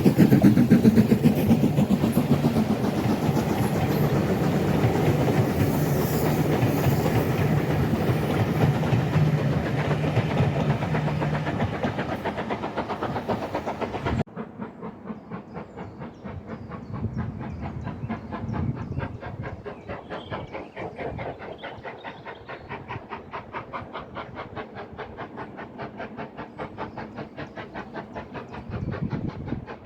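A train running on the line. First a loud, steady engine drone with wheel noise; then an abrupt cut about halfway in to a quieter, fast and even clatter of a train on the move.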